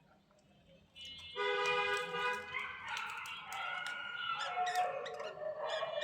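Budgerigars chattering and warbling: a busy run of bending, squeaky tones mixed with quick clicks, starting about a second in after a brief quiet.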